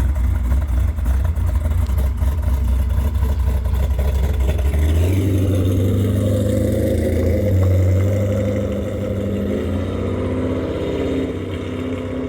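C5 Corvette's V8 engine running at a low, steady speed; about five seconds in its note shifts a little higher, and it grows slightly quieter toward the end.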